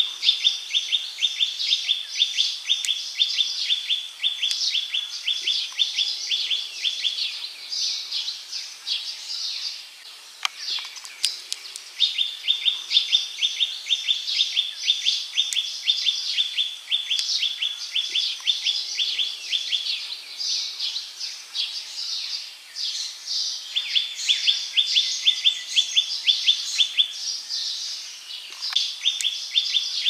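Birds calling in dry forest. A rapid, evenly pulsed high trill comes in three long runs of about eight seconds each, with gaps of a few seconds between them, over scattered higher chirps.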